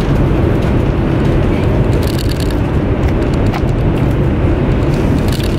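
High-speed train running, heard from inside the passenger cabin as a loud, steady low rumble. A few faint clicks sound over it.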